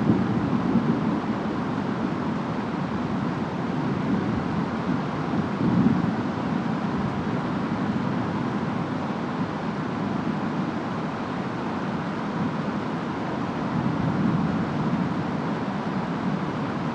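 Distant rainstorm: a steady wash of rain and wind with low rumbling swells, one about six seconds in and another near the end.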